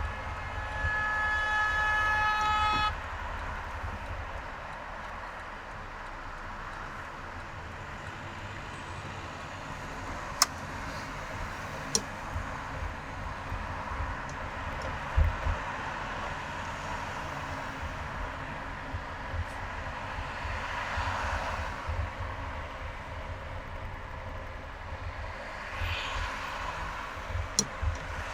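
Steady road and traffic noise from a car driving in highway traffic. A vehicle horn sounds one long, steady honk of about two and a half seconds near the start. A few sharp clicks come later, and a passing vehicle swells and fades about two-thirds of the way through.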